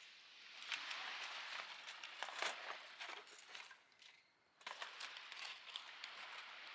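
Rustling and crinkling with many small clicks and taps, in two stretches broken by a short pause about four seconds in.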